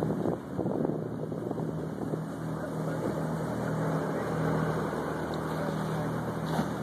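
Boat engine running steadily at a constant pitch, with wind buffeting the microphone.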